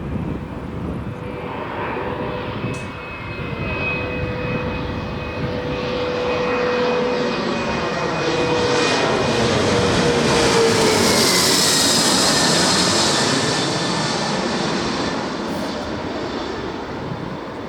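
A small private aeroplane flying past, its engine note growing louder, then dropping in pitch as it passes and fading away.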